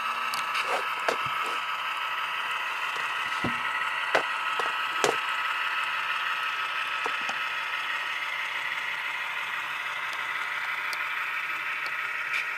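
Model diesel locomotive's Tsunami sound decoder playing an idling GE diesel through a small speaker, a steady thin drone. A scattering of sharp clicks and ticks comes mostly in the first five seconds.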